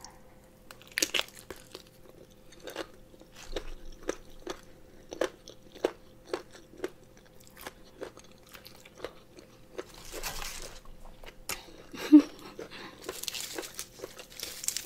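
Crunchy chewing of boiled pig ear, the cartilage giving a run of sharp, irregular crunches as it is bitten and chewed. Two longer hissing sounds come near the end.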